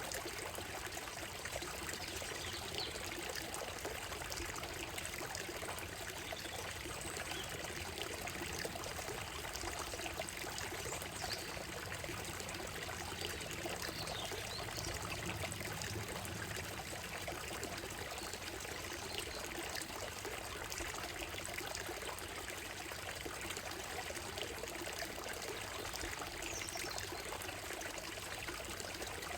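Shallow stream running steadily over stones on a gravel bed, with a few faint bird calls now and then.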